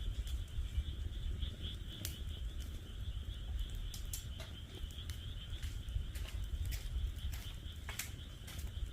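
Wood fire in a fire pit stand crackling, with irregular sharp pops scattered through. Underneath runs a steady high-pitched chorus of calling frogs and a low rumble.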